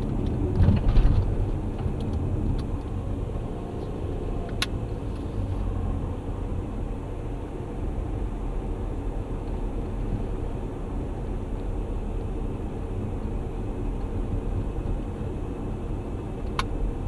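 A car being driven, heard from inside the cabin: a steady low rumble of engine and road noise. It swells louder about a second in, and two short sharp clicks come a few seconds in and near the end.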